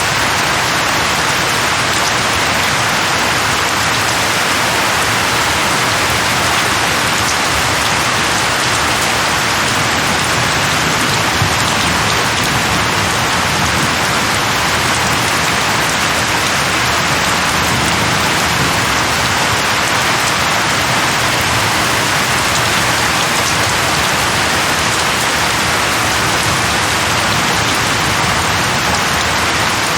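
Steady heavy rain falling on a surface, with individual drops ticking now and then.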